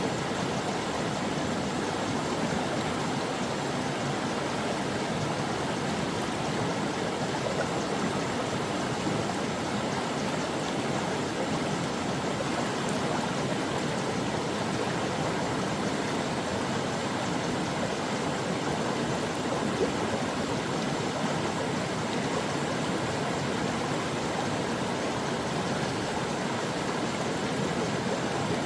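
A brook's water running steadily, a continuous even rush.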